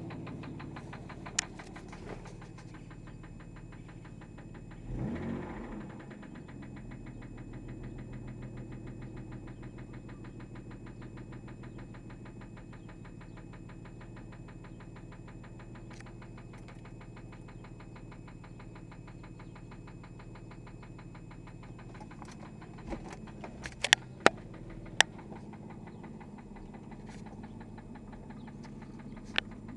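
Infiniti J30t's 3.0 V6 idling with a steady, rapid knock from a worn connecting-rod bearing. About five seconds in the engine is briefly revved and settles back. Near the end there are a few sharp clicks.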